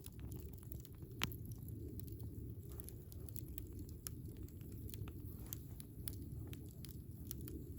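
Wood fire burning in a Picogrill 398 fire pit, crackling with irregular small pops and one sharper snap about a second in, over a steady low rumble.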